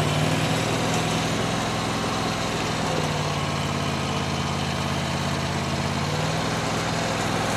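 Mini skid steer's engine running at a steady speed, with a slight change in its tone about six seconds in.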